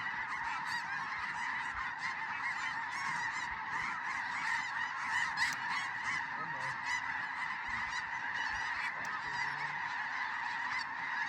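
A large flock of snow geese calling continuously: a dense, steady chorus of high honks and yelps.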